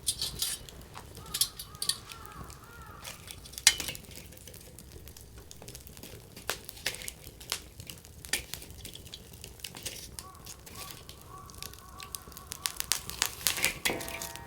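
Firewood burning in a campfire: irregular sharp crackles and pops over a low hiss. A faint steady whistle joins in about two-thirds of the way through.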